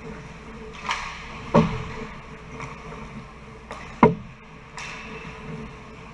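Ice hockey play in a rink: irregular sharp clacks and knocks of sticks, puck and boards, about half a dozen, the loudest about four seconds in, over a steady background hum.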